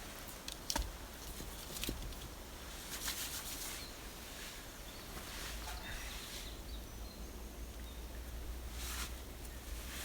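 Outdoor woodland ambience: a steady low rumble with a few scattered small clicks and brief rustles.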